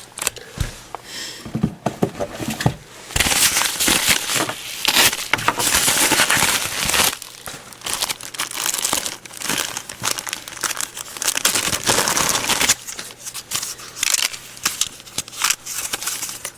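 Mail packaging being opened by hand: dense crinkling and tearing with many small clicks, heaviest from about three to seven seconds in.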